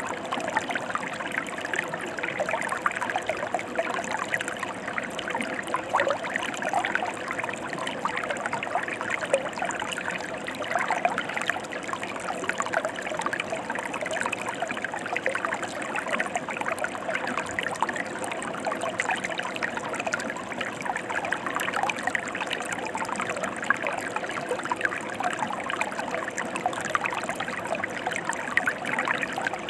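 Mountain stream flowing, a steady rush of running water with fine splashing and trickling.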